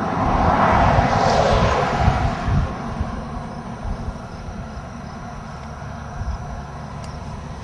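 A vehicle passes on the highway, its tyre and engine noise swelling about a second in and fading away, over steady wind rumble on the microphone.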